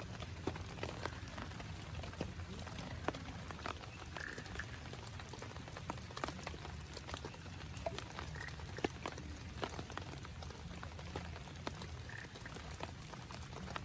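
Rain falling steadily, with scattered individual drops ticking irregularly over a constant low rumble, and three short faint calls.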